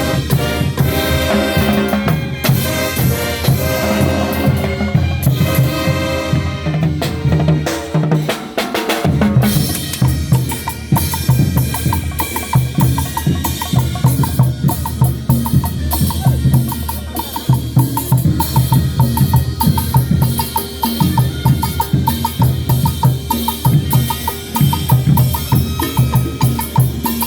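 Loud band music driven by drums, bass drum and snare beating steadily. A melody runs over it for the first several seconds; after a short break in the bass about eight seconds in, the drums carry on with a fast, regular clicking over them.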